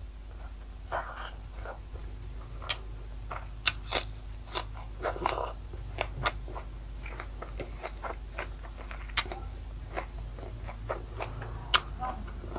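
Close-up chewing of a handful of rice and meat eaten by hand: irregular wet mouth clicks and smacks, many of them short and sharp.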